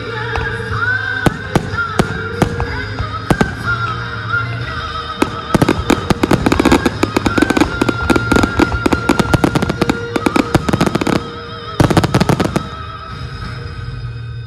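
Fireworks popping and crackling over music. The pops are scattered at first, then become a dense, rapid crackle for several seconds from about five seconds in, with one more short flurry near the end.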